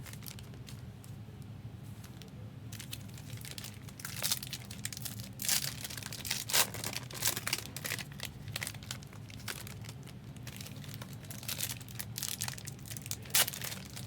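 Crinkly trading-card packaging being handled and torn, in irregular bursts of crackling, over a steady low hum.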